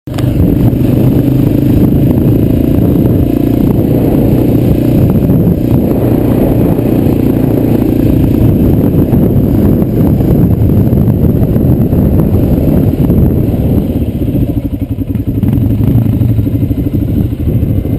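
ATV engine running under way, loud and steady, with many short knocks and rattles on top; it becomes slightly less even near the end.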